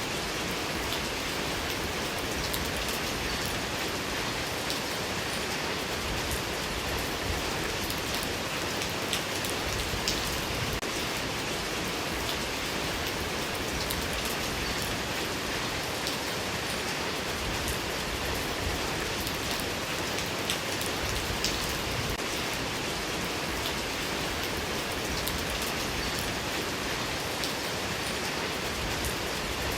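Steady rain falling, with a constant hiss and many small drops pattering on a surface.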